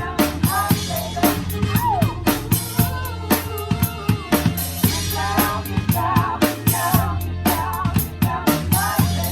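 Drum kit played live with a band: kick drum, snare and hi-hat, in a steady groove, over bass and other instruments playing a seventies rock song.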